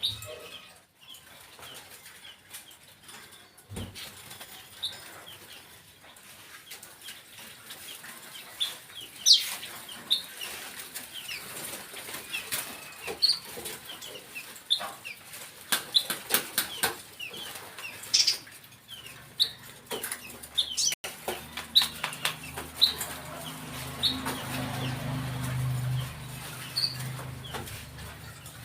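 A decoy bird flapping its wings in bursts of sharp clicks, with many short, high chirps between them. A low hum comes in about two-thirds of the way through and fades again near the end.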